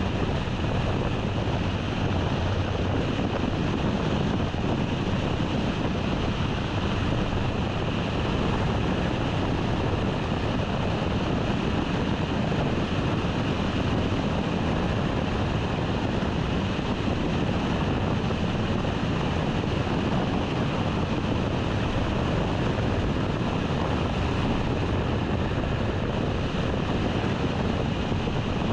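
Steady road and wind noise of a car driving at an even speed, with no change in pitch or level.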